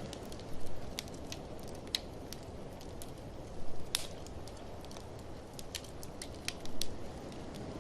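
Wood fire crackling in a fireplace, with irregular sharp pops and a few louder bursts of crackle, over a steady low rush of blizzard wind.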